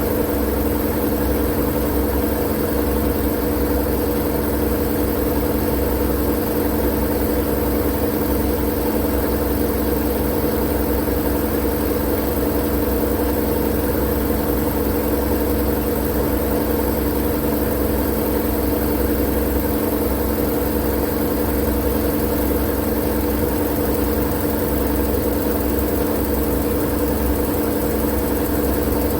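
Continuous white-noise sleep sound: a steady, unchanging drone with a low, engine-like hum beneath a wide hiss.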